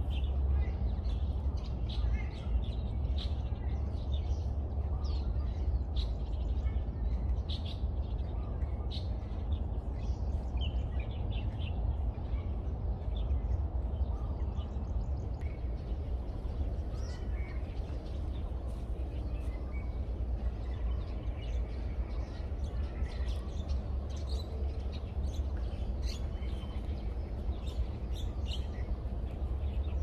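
Birds chirping now and then over a steady low outdoor rumble.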